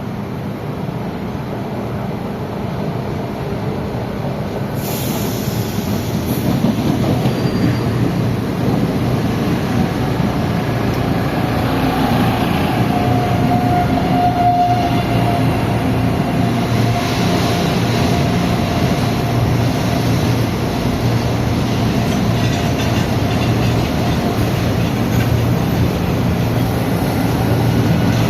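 Recife Metro train running on the rails, growing louder about five seconds in, with a brief high wheel squeal around the middle.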